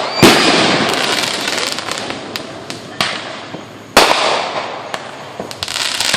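Fireworks going off: a loud bang at the start and two more about three and four seconds in, each followed by a fading crackle of many small pops.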